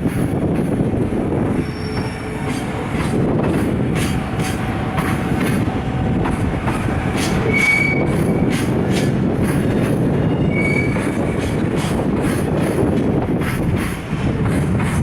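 Freight train's container flatcars rolling past at low speed: a steady rumble, with wheels clicking over rail joints and a few brief high wheel squeals.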